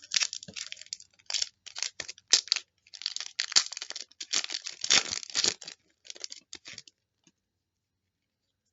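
Trading card pack wrapper crinkling and tearing as cards are handled, a run of rustles and crackles that stops about seven seconds in.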